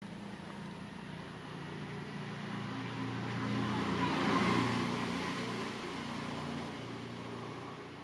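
A motor vehicle passing by: its engine and tyre noise grow louder to a peak about halfway through, then fade away.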